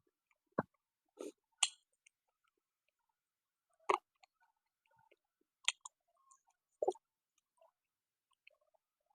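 A person eating close to the microphone: quiet chewing broken by about six short, sharp mouth smacks and clicks spread through the few seconds.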